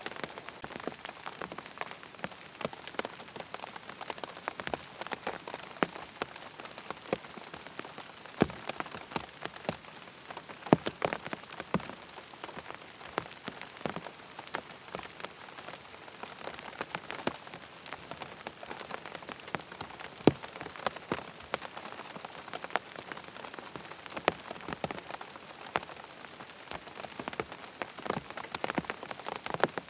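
Steady rain falling on a surface, with many individual drops landing as sharp, irregular clicks over an even hiss.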